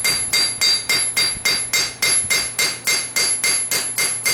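Hammer striking a hot farrier-rasp blank on an anvil in a steady, even rhythm of about three and a half blows a second, each blow ringing. The edge bevel of a knife is being forged down.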